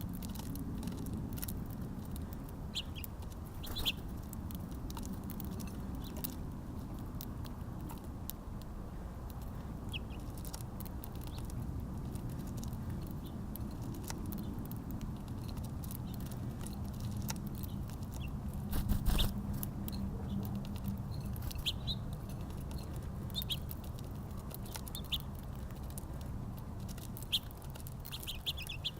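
Small birds chirping in short, scattered calls at a feeder, with many small clicks and pattering over a steady low background rumble. One louder thump about nineteen seconds in.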